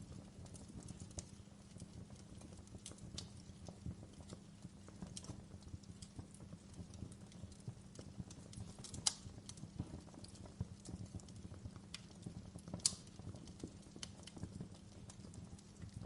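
Campfire crackling: a steady low rush of burning under frequent small irregular pops and snaps, with two sharper, louder pops about nine and thirteen seconds in.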